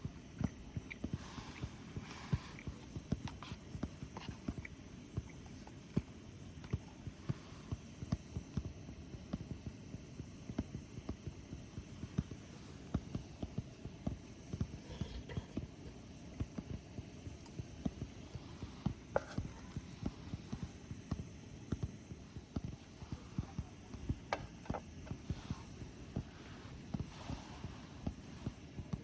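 Wood campfire crackling, with dense, irregular low pops and occasional sharper snaps.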